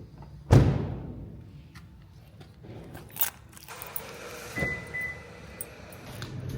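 A car door shutting with one heavy thump, followed by small clicks and knocks and two short high beeps.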